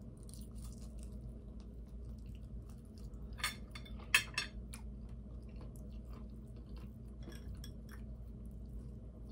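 Close-up chewing and biting of breaded chicken, with many small scattered mouth clicks and crunches over a faint low room hum; two sharper clicks stand out about three and a half and four seconds in.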